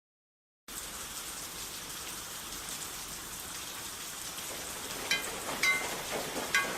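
Steady rain falling, a hiss that starts suddenly about a second in. From about five seconds in, three short high-pitched calls cut through it.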